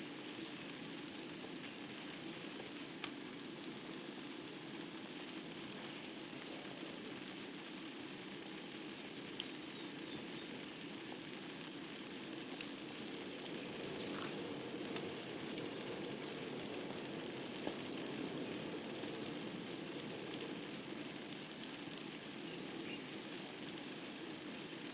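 Wood fire burning in a fireplace: a steady soft rushing sound with scattered sharp crackles and pops every few seconds.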